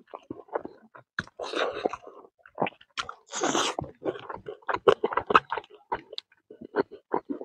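A person chewing and crunching roasted fish with rice, close to the microphone: a run of irregular wet clicks, smacks and short crunches.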